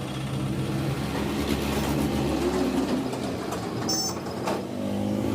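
Engine running steadily, with a few sharp clicks about four seconds in.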